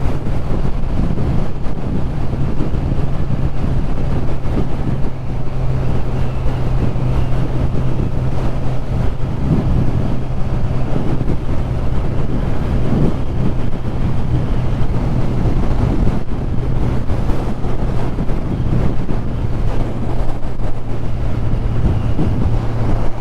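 Kawasaki Z1000SX's inline-four engine running at a steady cruise, one constant engine note, under heavy wind rushing over the microphone at road speed.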